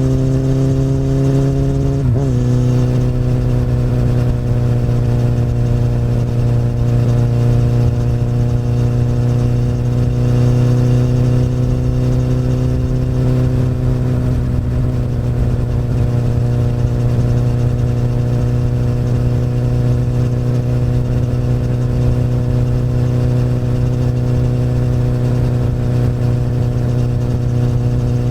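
Honda CBR1000RR inline-four engine running through an Akrapovic exhaust, holding a steady cruising note. The pitch rises slightly, dips briefly about two seconds in as in a quick gear change, then stays steady and eases a little about halfway through.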